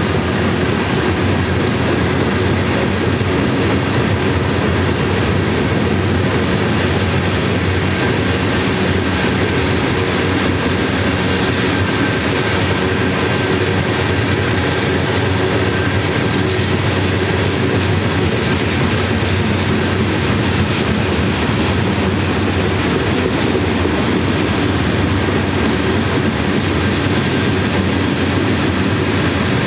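Covered hopper cars of a long freight train rolling past, a steady sound of steel wheels running on the rails with clacking over the track.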